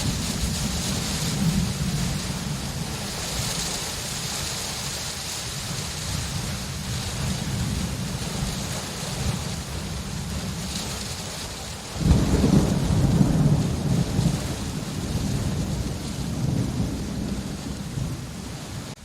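Steady rain with low rolling thunder. A sudden, louder peal of thunder breaks in about twelve seconds in and rumbles away over the next few seconds.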